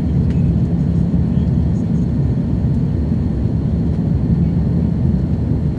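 Steady low rumble of an Airbus A330-200 heard inside the passenger cabin in flight: engine and airflow noise from its General Electric engines, with a faint high steady tone and a few faint ticks over it.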